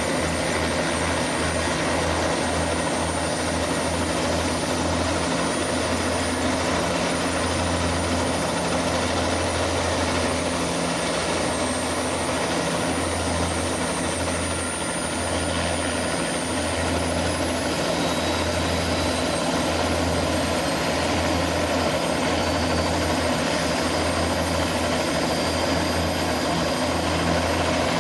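Turbine helicopter running nearby: a steady throbbing rotor beat under a thin, high turbine whine.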